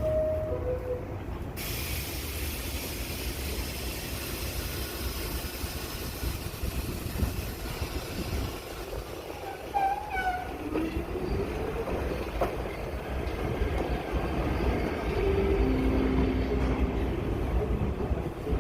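New York City subway train at the station: a short two-note descending door chime, then the continuous rumble and rail noise of the train, with a motor whine rising in pitch about halfway through as it picks up speed.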